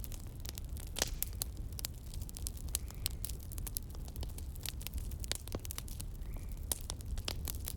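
Campfire crackling, with frequent irregular sharp pops, the loudest about a second in, over a steady low rumble.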